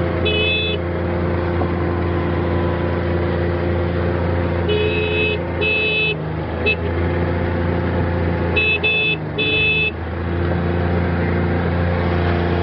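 Utility vehicle engine running steadily under load while climbing, with a vehicle horn tooted in short bursts, once near the start and then in a couple of quick clusters of several toots, as if to move sheep off the track.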